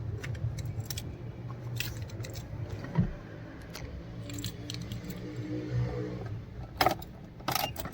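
Keys jangling with scattered clicks and knocks over a steady low hum, a thump about three seconds in and sharper clicks near the end.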